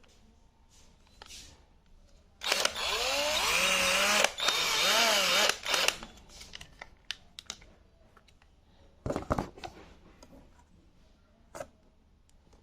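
12-volt cordless drill running for about three and a half seconds with one brief break, its motor pitch rising and falling as the variable-speed trigger is squeezed and eased. Scattered handling clicks follow, and there is a short thud about nine seconds in.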